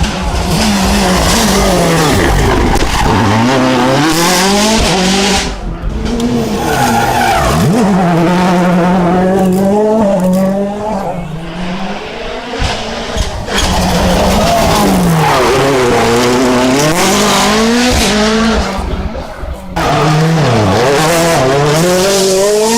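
Rally cars under full throttle on a stage, their engines revving up and dropping back again and again through gear changes and lifts, with tyre squeal. The sound breaks off abruptly twice, about 6 and 20 seconds in, as one car's pass gives way to another's.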